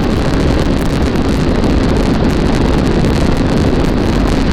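Heavy wind buffeting the microphone over a 500 cc motorcycle engine held steady at about 100 mph, its top speed.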